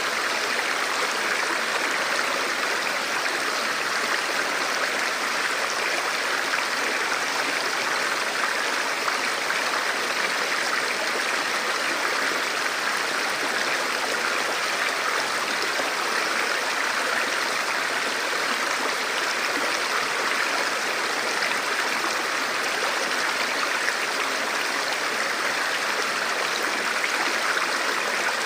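Forest river flowing over rocks: a steady, even rush of moving water.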